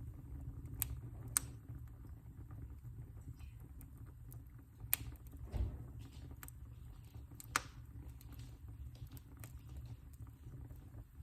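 Wood fire crackling in a fireplace: irregular sharp pops and snaps over a low steady rumble, with a duller thud about halfway through.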